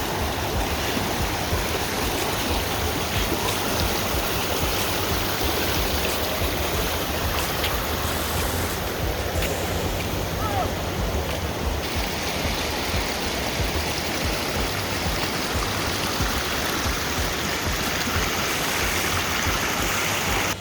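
Rushing water of river shoals: a steady, unbroken roar of water over rocks.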